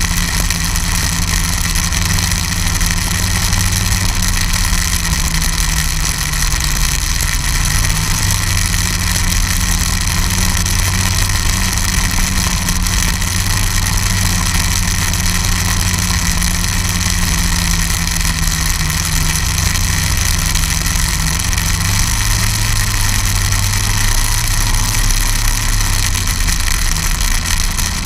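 Snowmobile engine running steadily, its pitch drifting slightly up and down, with a steady high whine over it.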